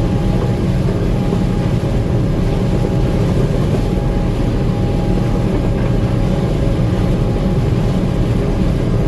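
Gleaner M2 combine running steadily, a constant engine drone with a faint steady whine above it, heard from the operator's seat.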